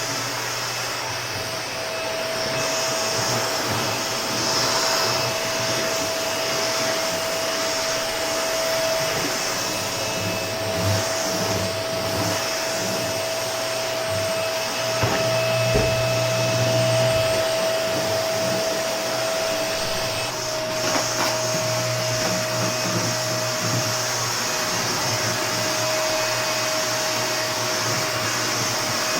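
Vacuum cleaner running continuously with a steady whine over the rush of air, with a few brief knocks and small changes in pitch as it is worked across the floor.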